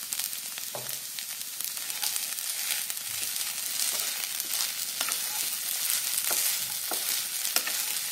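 Sabudana (sago pearl) khichdi sizzling in a nonstick pan as it is stirred with a wooden spatula, a steady high sizzle with irregular scrapes of the spatula against the pan.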